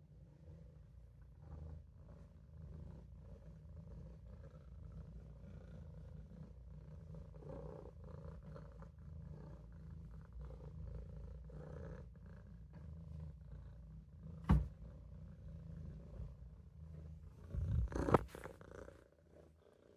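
Maine Coon kitten purring steadily in a low, continuous rumble. A sharp knock comes about two thirds of the way in, and a louder bump follows near the end.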